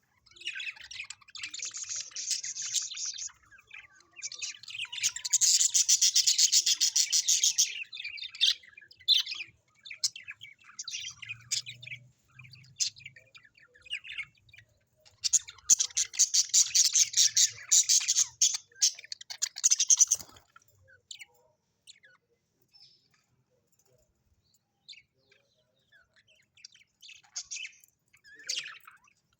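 Small pet parrots chattering in bursts of rapid, high twittering chirps, loudest in two long spells in the first two-thirds. After that only scattered short calls remain.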